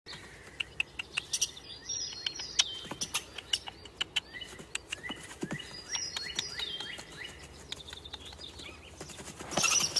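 Small birds chirping over and over, short calls between them sliding downward in pitch, mixed with frequent sharp clicks. The chirping and clicks grow louder and denser near the end.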